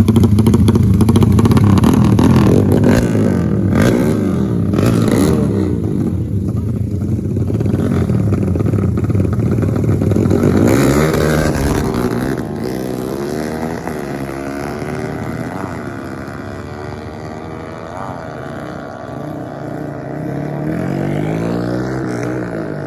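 Racing dirt bike engines revving up and down as they are ridden hard. A close, loud engine dominates at first; from about halfway through, several engines farther off rise and fall in overlapping sweeps.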